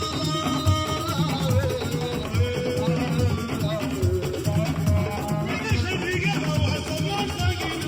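Live Assiko band playing: guitar and singing over a steady, driving beat.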